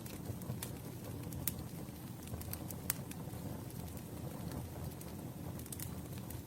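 Campfire burning: a steady low rumble of flames with sharp wood pops and crackles at irregular intervals.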